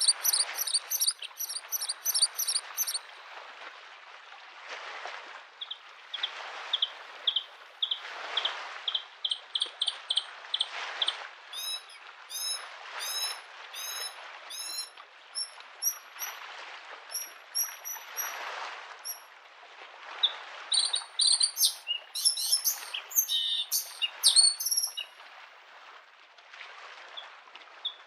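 Bluethroat singing in bursts of rapid repeated notes, upward-sweeping whistles and dense chattering phrases, over small waves washing against the lakeshore in soft swells every few seconds.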